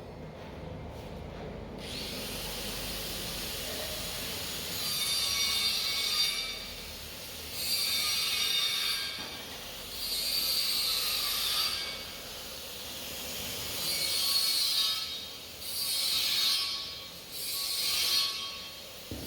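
Concrete block-making machinery running, with about six hissing, grating bursts of a second and a half to two seconds each, repeating every two to three seconds.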